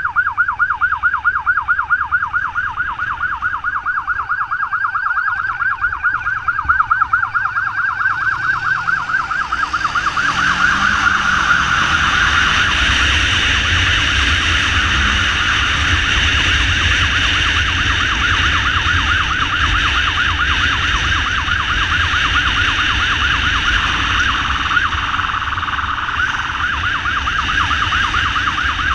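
Ambulance motorcycle's electronic siren on a fast yelp, its pitch sweeping up and down several times a second, over the motorcycle's engine and road noise, which grow louder about a third of the way in.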